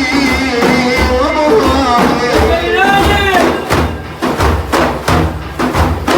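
A male voice singing a long melismatic line of a Sufi madh (devotional praise song) over hand drums; the voice stops a little past halfway and the drums carry on alone in a steady beat of about three strokes a second.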